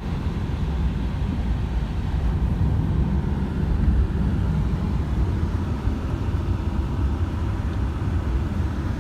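Steady low rumble and road noise of a car on the move.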